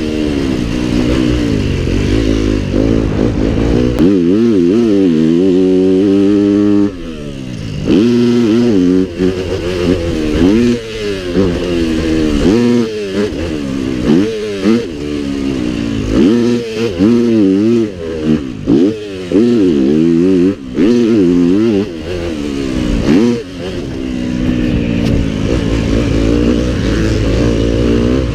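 Pit bike engine being ridden hard, its pitch climbing under throttle and dropping sharply as the throttle shuts, over and over, with one long climb about four seconds in that cuts off at about seven seconds.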